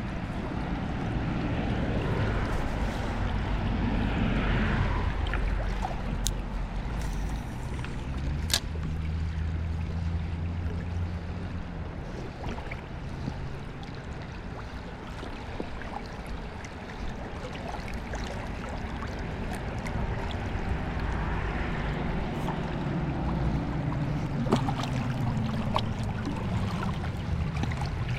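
A river's water running steadily, with low wind rumble on the microphone and a few sharp clicks.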